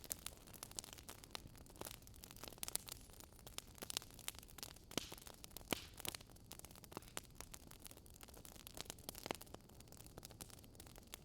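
Wood fire crackling in a fireplace: irregular sharp pops and snaps, a few louder ones, over a faint low steady rumble.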